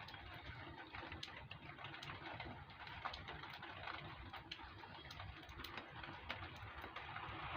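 Faint scratching and irregular small clicks of old protective plastic film being picked and peeled off a new metal part by hand.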